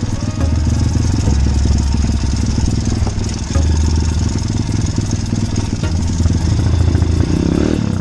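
Small motorcycle engine running steadily while riding, its pitch shifting in steps as the throttle changes.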